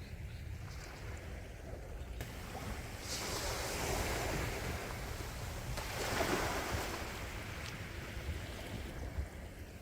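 Gentle sea waves washing onto the shore, a wash swelling about three seconds in and breaking about six seconds in, over a low steady rumble of wind.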